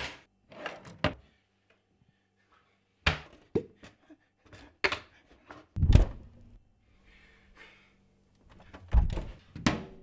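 Knocks and thuds of a kitchen drawer and a metal contact grill being handled on a worktop: a string of separate sharp knocks, the heaviest and deepest about six seconds in, and two more near the end.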